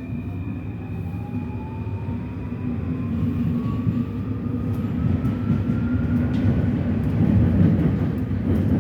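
Metro train pulling away, its electric traction motors whining in a smooth rising pitch over a steady rumble that grows louder as the train speeds up.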